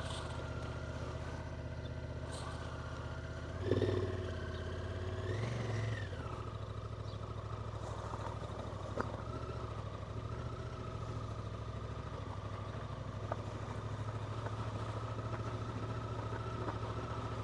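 Motorcycle engine running steadily at low revs, revved up briefly twice, about four and six seconds in.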